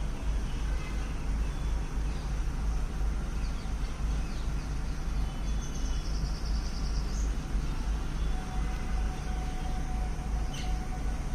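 Steady low outdoor rumble with faint bird chirps, a short run of them about halfway through.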